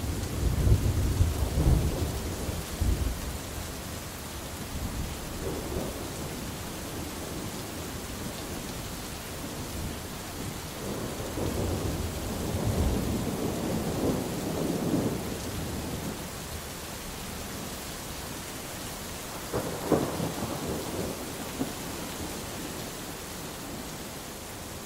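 Steady rain with rolling thunder: a loud low rumble at the start, another long rumble around the middle, and a shorter, sharper peal about two-thirds of the way through.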